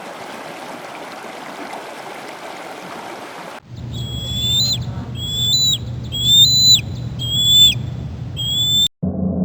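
Steady rush of a stream. About three and a half seconds in, it cuts to a bird giving about five whistled calls over a low steady hum; each call holds a slightly rising pitch, then drops sharply at the end.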